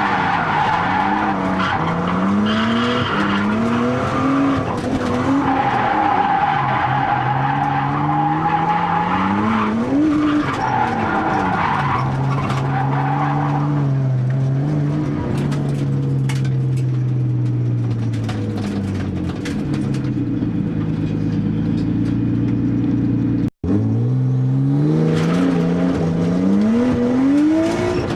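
Nissan R32 Skyline's RB20DET turbocharged straight-six revving up and down through drifts, with tyres squealing in long stretches during the first half. The engine runs a boost-up on its stock turbo with, by the owner's account, compression down in single digits. Later the revs hold steadier with less squeal, the sound cuts out for an instant, then the revving picks up again.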